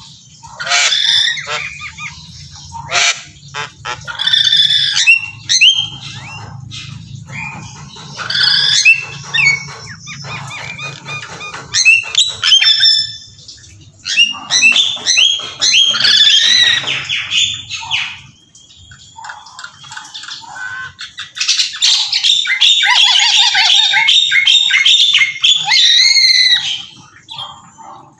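Birds squawking and chirping in a rapid run of short, harsh calls, densest near the end, over a steady low hum.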